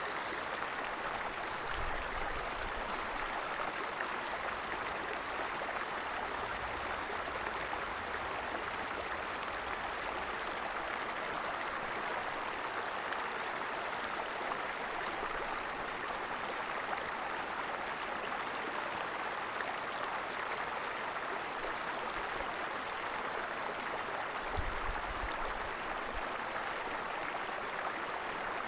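Waterfall: water falling and splashing in a steady, even rush, with a few brief low rumbles.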